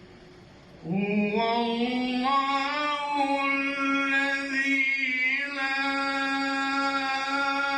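A man's voice chanting Quran recitation in the melodic tajweed style: after a short pause, about a second in, he begins one long drawn-out note that glides up in pitch and is then held with slight wavering ornaments.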